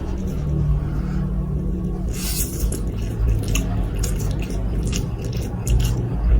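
Close-up eating sounds of instant spaghetti noodles: a brief wet scrape about two seconds in, then a run of short, sharp mouth clicks and smacks over a steady low hum.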